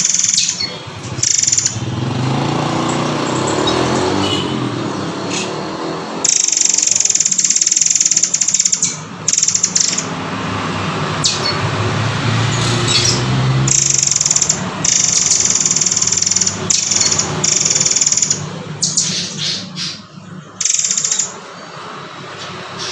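Murai air (murai kopi) singing: a run of high, shrill trills, each a second or more long, with short breaks between them, over a low background rumble.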